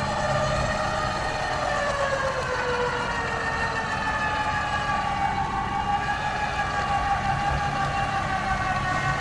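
Tracked recovery rig working under load as it pulls a stuck pickup. A high whine slowly wavers up and down in pitch over a steady low engine drone.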